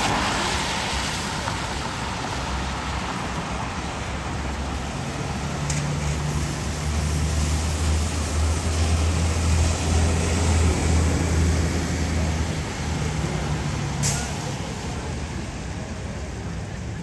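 A heavy vehicle's engine running close by in street traffic: a low hum that grows louder from about five seconds in and fades after about twelve seconds, with a short sharp click near the end.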